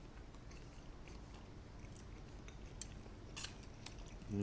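A person chewing food close to the microphone: faint wet mouth clicks, with one sharper click about three and a half seconds in. A short hummed voice sound comes right at the end.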